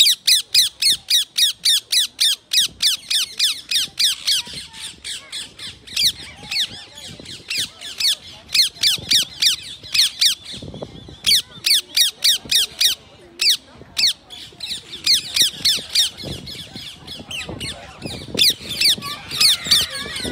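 Rose-ringed parakeets screeching: rapid runs of shrill, repeated calls, about five a second, broken by short pauses.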